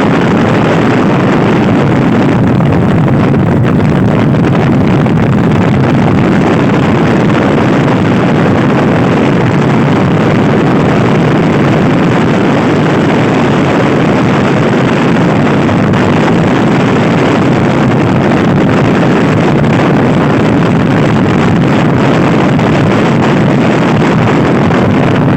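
Loud, steady wind rush buffeting the microphone of a Honda Scoopy-i scooter ridden at speed, with the sound of riding under it.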